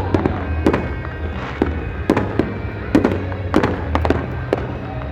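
Consumer fireworks set off by the crowd, going off in about ten sharp, irregularly spaced bangs and reports. A low, steady hum and music sit underneath.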